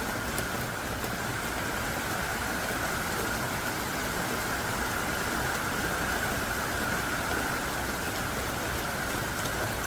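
Heavy, pouring rain: a steady, dense hiss of downpour with faint drop ticks.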